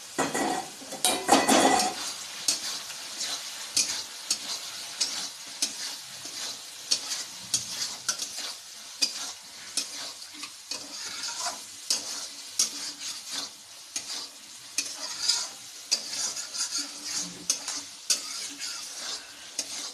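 A spatula stirring and scraping paneer in a pan of frying spice masala, over steady sizzling oil. There is a louder burst of sizzle and clatter in the first two seconds, then irregular scrapes and clicks of the spatula against the pan.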